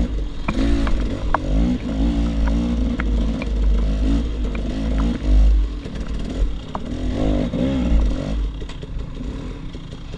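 KTM 300 XC-W two-stroke enduro engine revving up and down in rapid swells as the bike is ridden off-road, with scattered clacks and scrapes from rocks and a heavy low wind rumble on the microphone. The engine eases off near the end.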